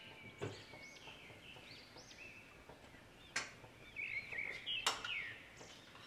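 Small birds chirping in short repeated notes, with three sharp clinks of kitchen utensils against cookware spread through.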